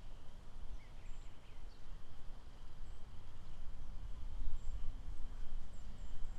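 Outdoor nature ambience: a steady low rumble with faint, short high bird chirps scattered through it.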